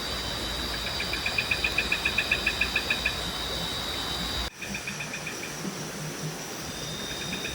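Night insects in tropical forest: a steady high-pitched drone with a rhythmic chirping call of about eight pulses a second, coming in short bouts. A low steady rumble underneath drops away at a sudden cut about four and a half seconds in.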